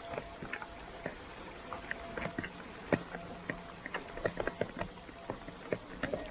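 Raindrops pattering close to the microphone: many irregular sharp ticks and taps over a steady hiss.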